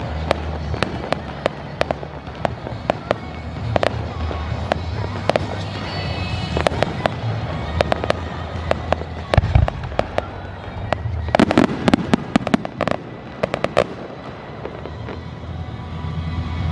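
Aerial fireworks bursting: a steady run of sharp crackling pops, with one deep boom about nine seconds in and a dense flurry of crackles a couple of seconds later.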